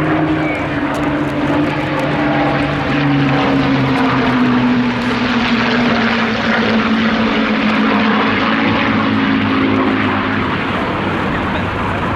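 Rolls-Royce Merlin V12 piston engine of a wartime fighter flying past, a loud steady drone whose pitch falls slowly as it goes by.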